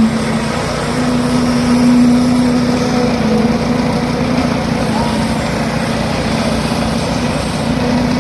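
Construction machinery engine running steadily, a constant drone with a strong hum and no breaks.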